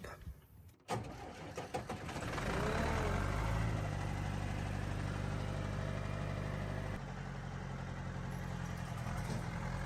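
Tractor engine starting about a second in, then settling into a steady idle.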